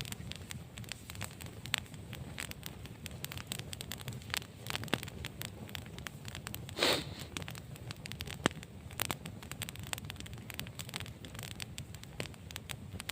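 Wood campfire crackling, with frequent irregular sharp snaps over a low steady rush and one louder, longer burst about seven seconds in.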